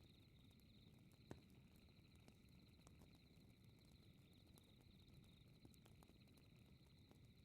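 Faint fireplace crackling, with scattered small clicks and one sharper pop about a second in, over a steady pulsing chirp of crickets.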